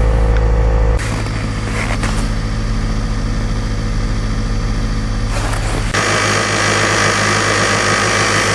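Kia car engine idling steadily just after a hard cold start in deep sub-zero cold. The low rumble drops about a second in, and a steady hiss comes up near six seconds in.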